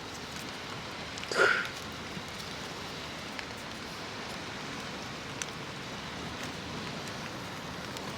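Steady rain falling, an even hiss, with one short louder sound about a second and a half in.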